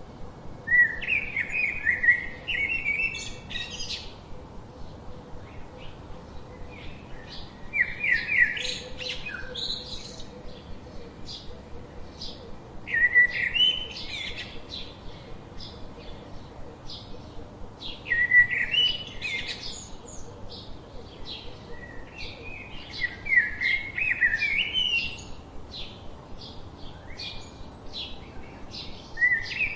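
Birdsong: a bird sings a short, quick phrase about every five seconds, six times in all, with quieter rapid chirps between the phrases.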